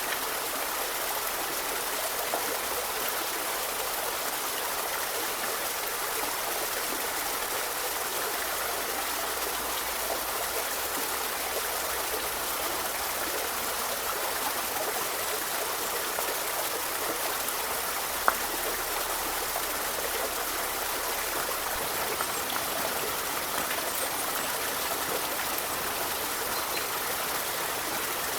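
River flowing steadily, an even rushing of water. A single short, sharp click stands out about two-thirds of the way through.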